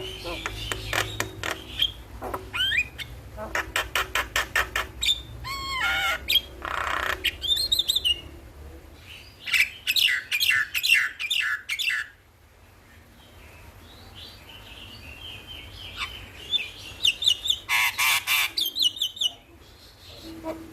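Javan myna (jalak kebo) singing: runs of rapid harsh chattering notes mixed with whistled rising and falling calls, with a quieter gap a little past the middle.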